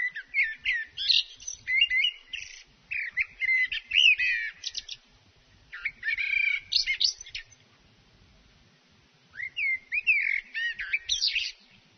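Bird chirping: quick bouts of short, high, rising and falling chirps and whistled notes, pausing twice.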